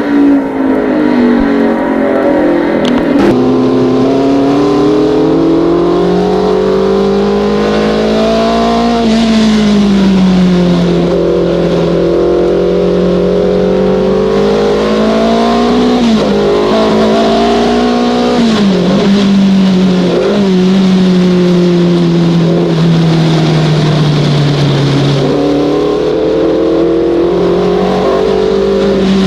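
Slot cars' small electric motors whining around the track, the pitch rising and falling as they speed up and slow down through the laps.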